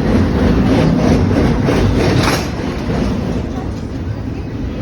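BNSF intermodal freight train passing close by: a loud steady rumble of wheels on rail with a series of rattling clatters that peak a little after two seconds in, then easing off.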